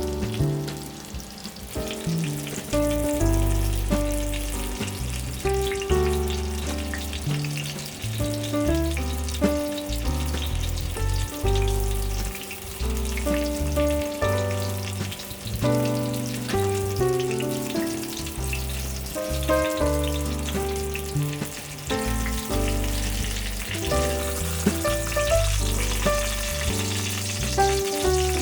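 Breaded pork cutlets sizzling as they fry in hot oil, a steady crackling hiss that grows a little stronger near the end. Background music with a steady bass line plays over it.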